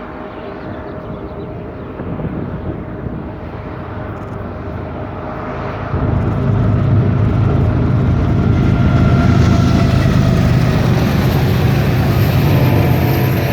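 Union Pacific diesel locomotives at the head of a double-stack freight train, approaching with a steady engine drone that grows louder, then becomes much louder about six seconds in as the locomotives draw close. A high whine rises in near the end.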